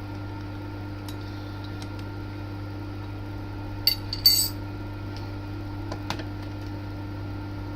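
TOS milling machine running steadily with a drill bit working in a snapped exhaust stud, giving an even hum. Sharp metallic clinks come about four seconds in, with a fainter one a couple of seconds later.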